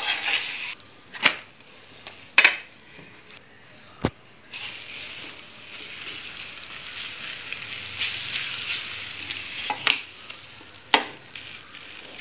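Oil sizzling under a puran poli on a hot non-stick pan, with a few sharp clicks of a spoon and spatula against the pan. The sizzle drops away about a second in and comes back about four and a half seconds in.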